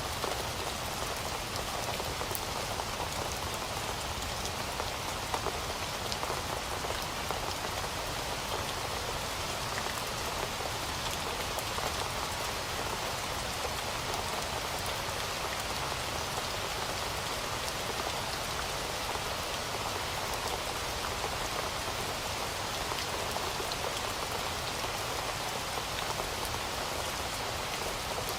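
Heavy rain falling steadily, a dense patter of drops on a hard surface with no thunder.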